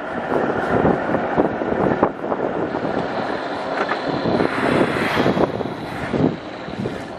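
Wind rushing and buffeting over the microphone of a moving e-bike, with a faint steady high whine from about the middle onward.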